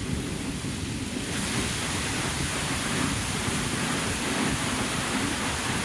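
Water fountain splashing in a steady rushing hiss that grows brighter about a second in, over a gusty low rumble of wind on the microphone.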